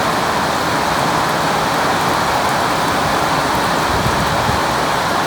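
Heavy rain falling, a steady even hiss with faint scattered ticks of drops.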